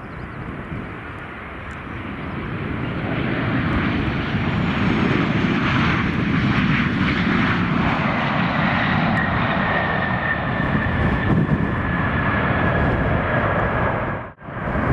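Jet airliner engines, growing louder over the first few seconds and then running at a steady loud rush. From about the middle on, a high whine slowly falls in pitch. The sound drops out briefly near the end.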